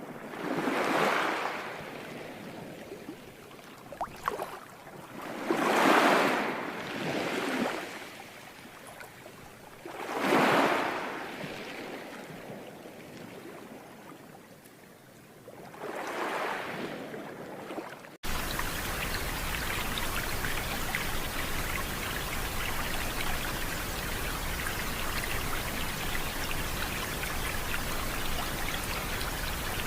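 Nature-soundtrack water sounds: four swells of rushing water, each rising and falling a few seconds apart, then an abrupt cut about eighteen seconds in to a steady, even rush of falling water.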